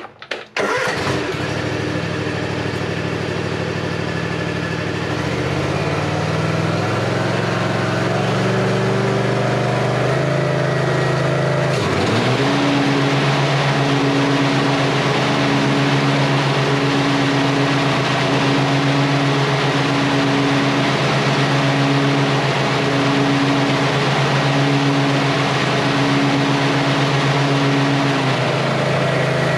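Gravely ZTXL 42 zero-turn mower's engine cranking and catching about half a second in, then running steadily. Its speed rises over a few seconds, dips sharply about twelve seconds in, and then settles into a steady run with a regular pulsing note on top.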